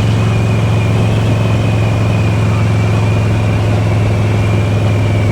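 Motorcycle engine running at a steady pace, a loud even low hum with a faint high whine above it.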